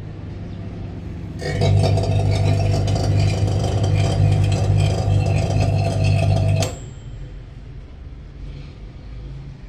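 Microwave oven running with a loud steady hum and a crackle of sparks arcing inside the cavity. It starts about a second and a half in and cuts off suddenly after about five seconds.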